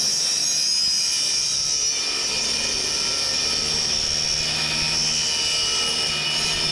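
Electric power saw running at full speed and cutting through 4-inch PVC drainage pipe: a loud, steady high-pitched whine.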